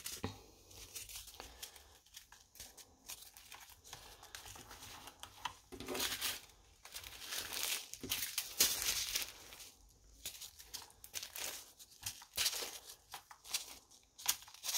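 Small plastic bags of leftover diamond-painting drills being handled, the plastic crinkling in irregular bursts.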